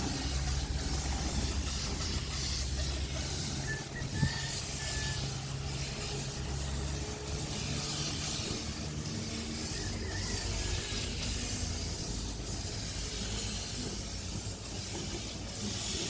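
Steady hiss of air over a low machine hum, with one short knock about four seconds in.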